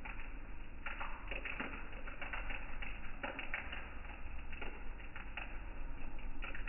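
Rain falling onto a shallow flood puddle: a steady patter with many irregular, sharper drip taps scattered through it.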